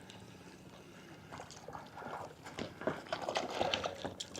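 Water splashing and sloshing from a hooked trout thrashing near the surface as it is reeled in, faint at first and getting louder over the last few seconds.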